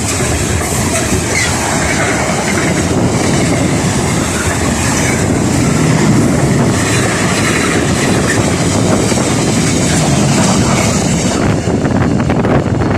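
A train passing close by at a level crossing, a loud steady rush of wheel and rail noise that thins out near the end.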